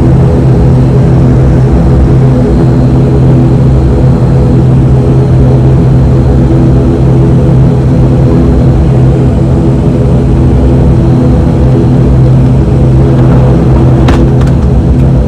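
The ATR 72-500's twin Pratt & Whitney PW127 turboprops and their propellers droning steadily, heard inside the cabin as a loud low hum with several steady tones. A couple of sharp clicks come near the end.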